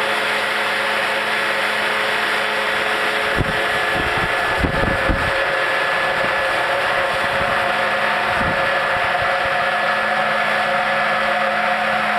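Blizzard snow cannon, a large special-effects snow machine, running steadily with a loud, even blower hum. A few low thumps come through about a third of the way in and again past the middle.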